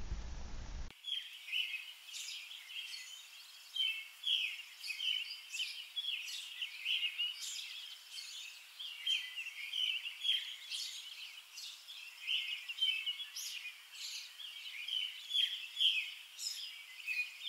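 A chorus of small birds chirping and singing, starting about a second in: many short, high calls overlapping without a break.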